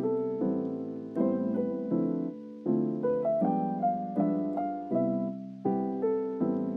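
Lo-fi background music: keyboard chords in a piano-like tone struck in a steady rhythm, about every three-quarters of a second, each fading before the next.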